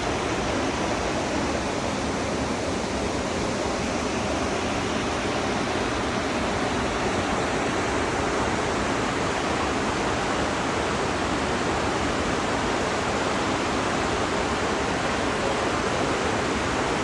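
Steady rushing of water, an even noise with no breaks or changes in level.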